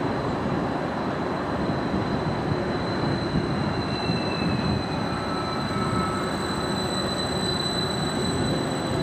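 Transport for Wales Class 231 multiple unit running into the platform: a steady rumble of wheels and running gear with a thin, high squeal held over it that is strongest midway. A faint whine falls in pitch a few seconds in.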